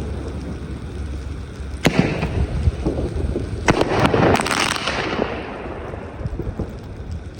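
Svea consumer fireworks going off: a sharp bang about two seconds in, another near four seconds, then a burst of crackling that fades away.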